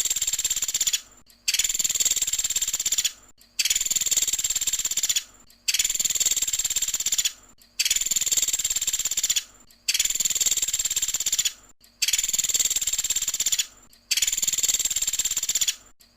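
Pelatuk sampit woodpecker giving a rapid high trill, the fast 'tembakan' burst song, repeated evenly about every two seconds. Each trill lasts about a second and a half, with a short silence between trills.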